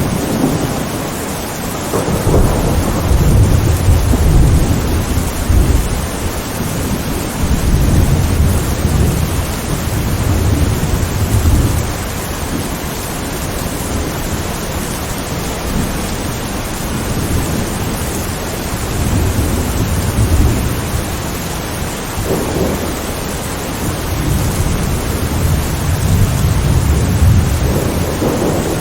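Steady heavy rain with thunder rolling in slow, low rumbles that swell and fade several times.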